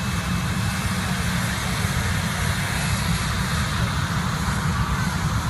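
Jet airliner engines running: a steady noise with a deep rumble underneath and a faint high whine.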